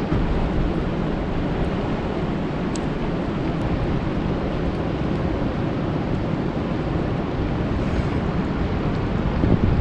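Steady rain falling on a lake, a dense, even hiss with a strong low rumble beneath it.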